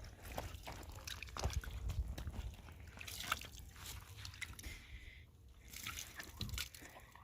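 Water sloshing and dripping, with irregular small knocks and scrapes.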